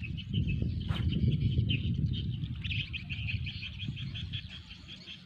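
Outdoor ambience: rapid high chirping repeating throughout, over a louder low rumbling noise, with one sharp click about a second in.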